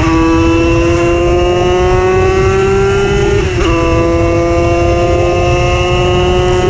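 Tuned 90 cc reed-valve two-stroke engine of a Simson moped pulling hard under way, its high buzzing pitch climbing slowly. About three and a half seconds in, an upshift drops the pitch briefly before it climbs again. Wind rumble underneath.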